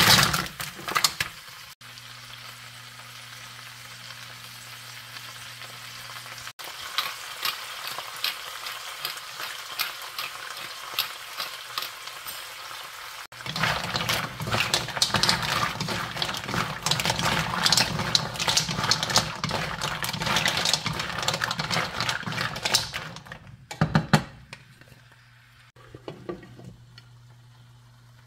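Fresh mussels in their shells tumbling into a hot wok, then sizzling and crackling as they fry with onion and tomato. About halfway through, the shells rattle and scrape against the wok as they are stirred with a wooden spatula, and near the end there is a short clack as a glass lid goes on.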